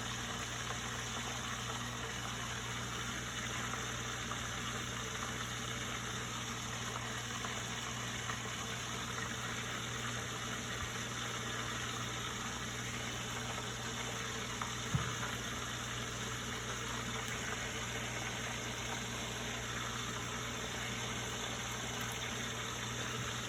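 Steady low mechanical hum with a hiss over it, with one short knock about 15 seconds in.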